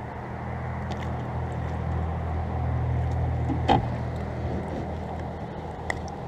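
A low, steady motor-like hum that swells and then eases off, with one sharp knock about halfway through and a small click near the end.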